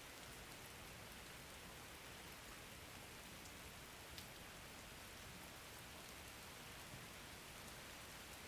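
Steady rain falling: a soft, even hiss with an occasional single drop tick.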